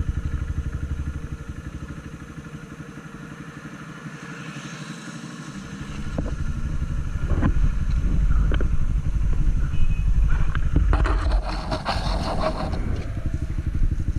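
Honda CG 160 Titan motorcycle's single-cylinder engine running on the move, dropping quieter for a few seconds and then louder again from about six seconds in. A burst of noisy rattling comes near the end.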